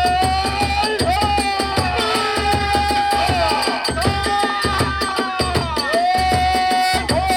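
Kagura hayashi: a transverse bamboo flute plays long held notes that slide between pitches, over fast, even drumbeats and the clash of small hand cymbals.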